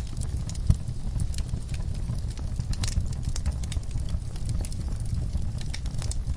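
Wood fire crackling in a fireplace: irregular sharp pops over a low steady rumble, with one louder pop near the start.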